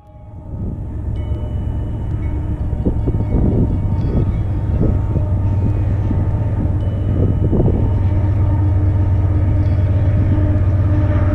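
Freight train with diesel locomotives running past, a steady low rumble with engine drone that swells in over the first second.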